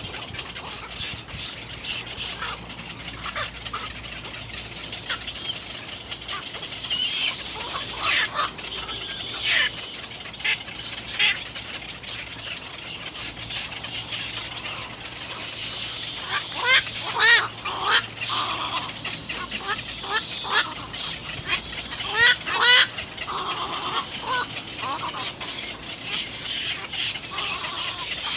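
Birds calling: a steady high chatter throughout, broken by clusters of short, harsh, rapidly repeated calls, loudest about halfway through and again some two-thirds of the way in.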